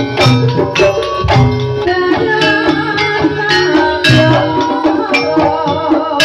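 Jaranan (kuda lumping) ensemble music: drums beating a steady, fast rhythm under held gong-like tones and a wavering melody line.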